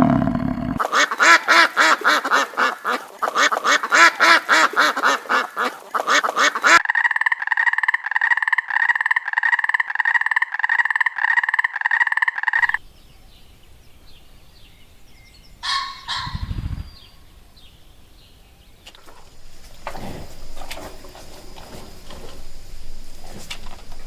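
A run of animal calls from separate clips that cut in and out sharply: first a dense chorus of rapid, overlapping calls, then a steady, repeated call about twice a second, then a quiet outdoor stretch with a single short call a few seconds later and faint calls near the end.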